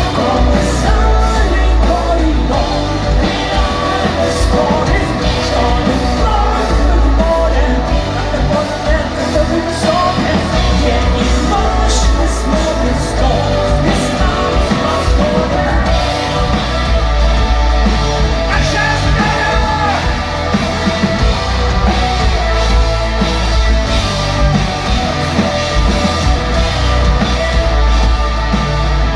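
Rock band playing a song, with a sung lead vocal over drums, bass and guitars, loud and continuous.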